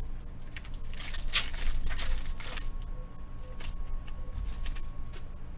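Trading-card packs and cards being handled: a burst of crinkling and rustling about a second in that lasts over a second, then a few light clicks and rustles.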